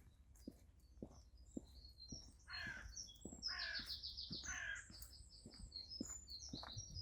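A crow cawing, three harsh calls in the middle, over many short high chirps from small songbirds. Soft footsteps on a path about twice a second.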